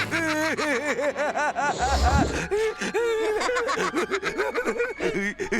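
Cartoon character laughing: a rapid run of short, staccato "ha" syllables lasting about a second and a half, followed by more snickering laughter that rises and falls in pitch.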